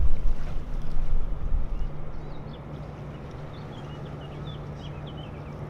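Wind gusting on the microphone for about the first two seconds, then easing, over a steady low hum, with a few faint high chirps like small birds near the middle.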